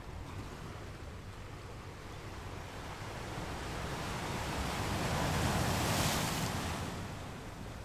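Sea water washing: a rush of waves swells to a peak about six seconds in and then fades, over a steady low rumble.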